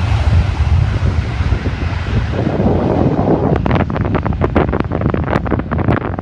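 Low rumble of an aircraft fading away, its hiss dulling as it goes, under heavy wind buffeting the microphone. The buffeting crackles irregularly in the second half.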